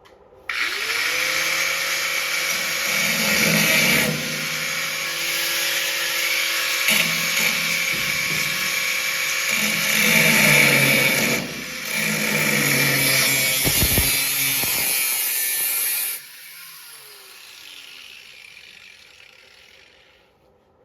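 Angle grinder with a cutoff wheel spinning up and cutting rusted steel of the snowmobile frame, with several brief breaks between passes. It is switched off about four seconds before the end and winds down with a falling whine.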